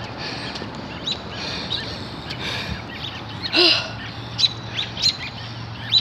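Small bird chirping: short, sharp, high chirps, repeated irregularly, with one louder, lower call about three and a half seconds in.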